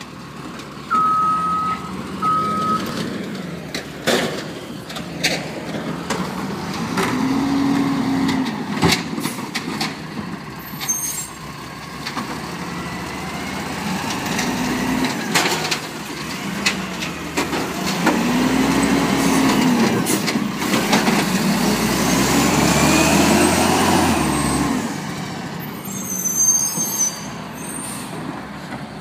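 Garbage truck's diesel engine running and revving up and back down several times as it works, with several sharp knocks along the way and two short beeps near the start.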